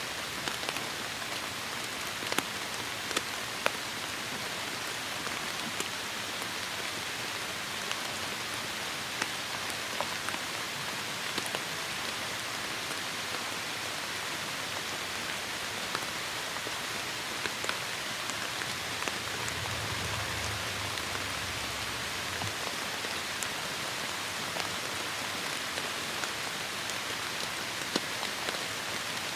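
Heavy rain falling steadily, with scattered sharper drop hits. A brief low rumble comes about two-thirds of the way through.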